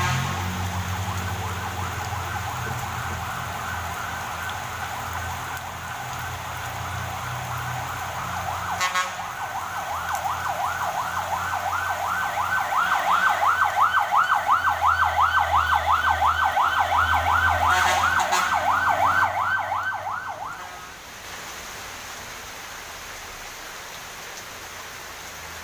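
Siren with a fast warble, growing louder past the middle and cutting off abruptly about 21 seconds in, over a low vehicle-engine rumble; a steady hiss remains after it stops.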